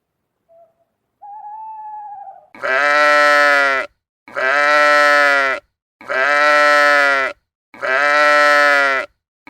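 The same long bleat repeated four times, about every second and a half, looped from one recording. A short hoot-like tone comes just before it.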